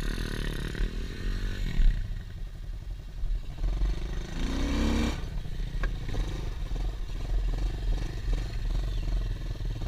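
Pit bike engine running, with a rising rev about four to five seconds in.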